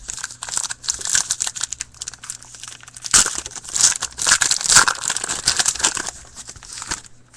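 A 2011-12 Certified hockey card pack's wrapper being torn open and crinkled by hand, a dense crackling that is loudest through the middle seconds and stops shortly before the end.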